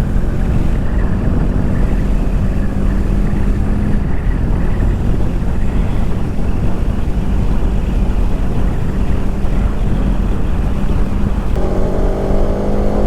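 Bajaj Pulsar motorcycle engine running steadily at highway cruising speed, under heavy wind and road rumble on the rider-worn camera. Near the end a stack of slowly rising engine tones joins in, like an engine speeding up.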